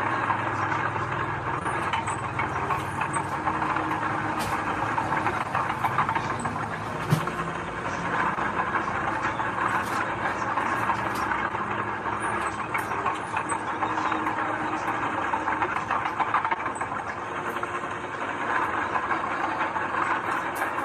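Heavy earthmoving machinery running steadily, with scattered metallic clanks and rattles and one louder knock about seven seconds in.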